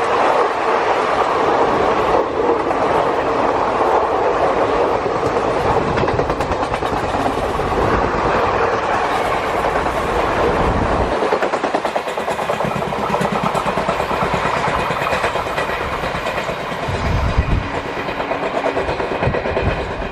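Indian Railways express passenger train rolling past, its wheels clattering over the rail joints in a steady, continuous run of clicks.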